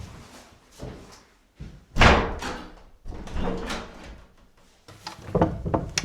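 A series of knocks and thumps, one loud bang about two seconds in, then a few quicker knocks near the end.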